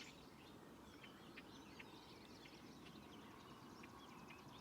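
Faint outdoor ambience with scattered, distant bird chirps, short and high, over a quiet low hiss.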